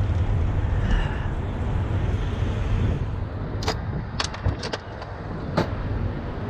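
Steady low rumble of an idling heavy-truck diesel engine, with a few sharp clicks about halfway through.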